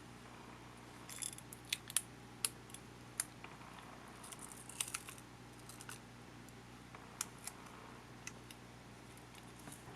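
Small plastic and metal parts and hand tools being handled while working on a camcorder: irregular sharp clicks, taps and light scrapes, a cluster in the first couple of seconds and more around the middle, over a faint steady hum.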